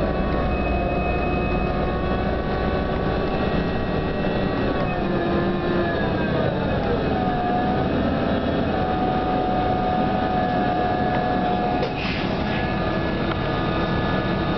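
Cabin sound of a New Flyer DE42LFA diesel-electric hybrid bus: its drivetrain whine of several steady tones over engine and road rumble. The tones fall in pitch about halfway through and then hold steady, and there is a short hiss near the end.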